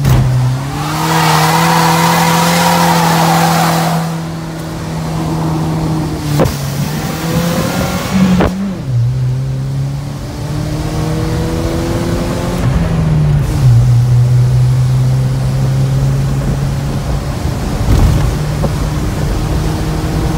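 Manual-transmission car's engine heard from inside the cabin, running hard at high revs, with a rushing hiss of spinning tyres for the first few seconds. The engine note shifts at gear changes about eight and thirteen seconds in.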